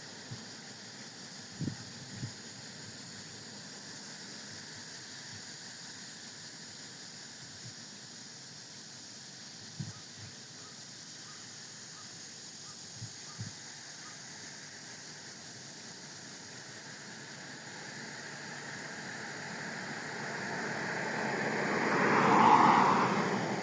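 Steady outdoor hiss with a few soft knocks, then a vehicle approaching, passing close about 22 seconds in and starting to fade.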